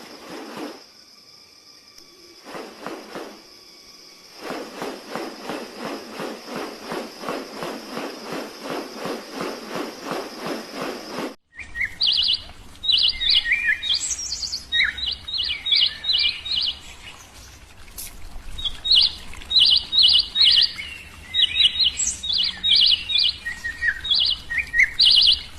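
Birds chirping in quick runs of short high notes, repeated in clusters. Before this, after an abrupt cut about halfway through, there is a rapid, even pulsing chatter over a steady high tone.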